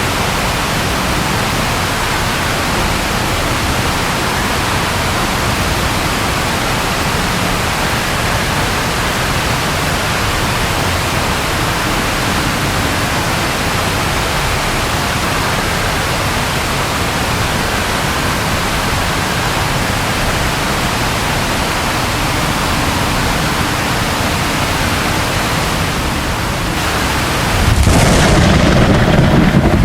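Steady rain falling as an even hiss, with a low rumble of thunder coming in near the end.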